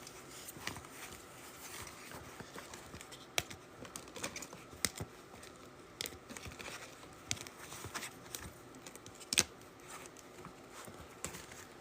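Light handling noises at a desk: scattered clicks, taps and soft rustles at an uneven pace, the loudest sharp clicks about a third of the way in, near the middle and about nine seconds in.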